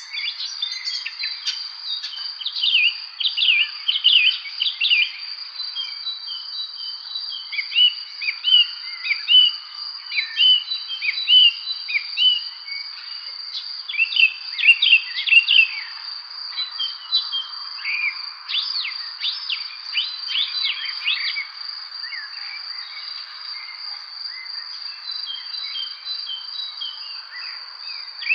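Several songbirds chirping and singing in quick, busy phrases over a continuous high-pitched insect trill.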